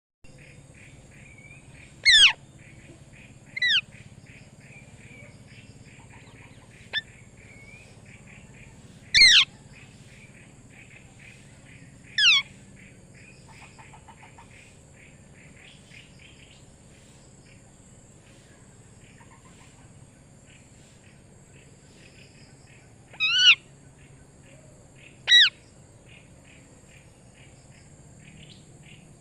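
Parrot calling: six short, loud squawks, each sweeping sharply down in pitch, spread irregularly with long gaps, over faint steady chirping.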